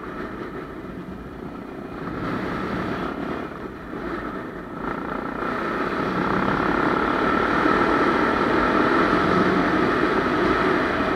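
Honda Tornado 250's single-cylinder four-stroke engine running steadily, growing louder about halfway through.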